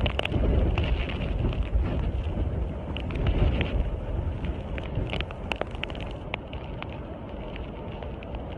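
Hurricane wind buffeting the microphone in a steady low rumble, with scattered sharp clicks throughout.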